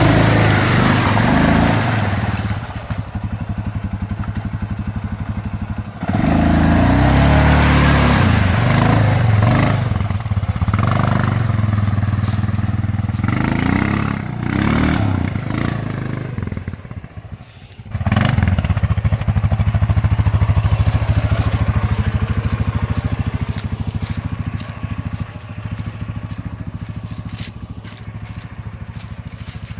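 Small engine revving up and down repeatedly, with a brief drop near the middle before it picks up again and runs on more evenly.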